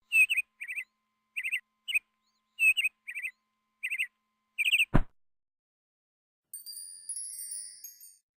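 Bird-like chirps in about eight quick little groups, ending in a sharp click about five seconds in. After a short pause, a cluster of high tinkling chime tones rings and fades near the end.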